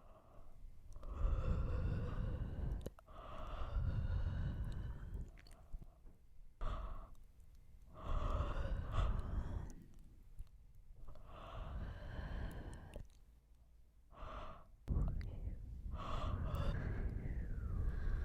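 A person yawning again and again close to the microphone: about five long, breathy, voiced yawns of a couple of seconds each, with short pauses between them.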